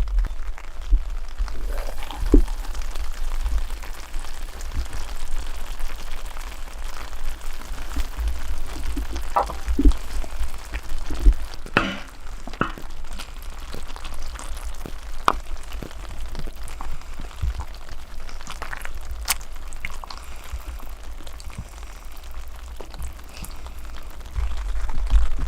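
Wood campfire crackling and hissing, with scattered sharp pops, over a steady low rumble.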